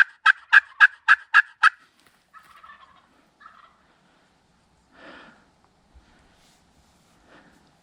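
Turkey yelping: a run of loud, evenly spaced notes, about four a second, ending a couple of seconds in. A few fainter, shorter turkey calls follow.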